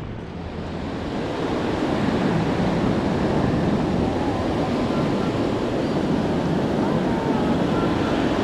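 Steady rushing noise of wind and water, growing louder over the first couple of seconds and then holding.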